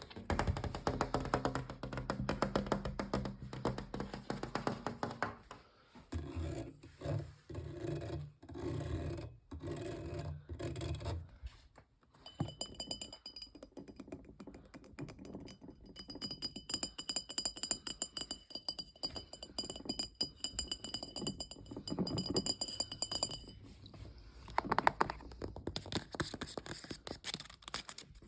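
Fast ASMR tapping with the fingers on a series of household objects, a dense run of quick taps that changes character as the object changes every few seconds. From about twelve seconds in to about twenty-three seconds, steady high ringing tones sound along with the taps.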